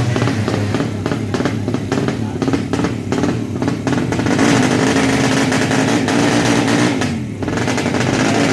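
200cc underbone (bebek) drag bike engine running at high revs, a strong steady note from about four seconds in that cuts off after about seven seconds.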